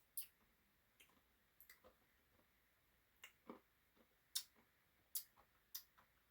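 Faint, irregular small clicks and smacks of a person eating ice cream from a cup, about a dozen over a few seconds, with near silence between.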